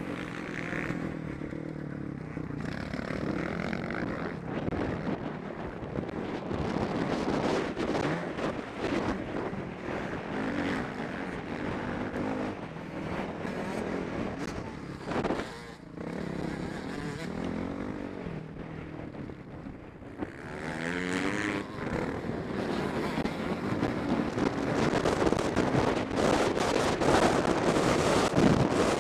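Motocross motorcycle engine revving up and easing off again and again, heard from the rider's helmet camera, with wind noise on the microphone growing louder near the end.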